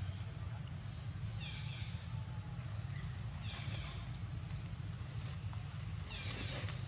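Baby long-tailed macaque crying while its mother weans it. Three short, high-pitched cries come about two seconds apart over a steady low rumble.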